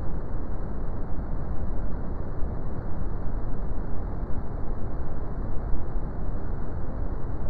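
Brown noise: a steady, deep hiss, strongest in the bass and thinning out toward the treble, with no change or events.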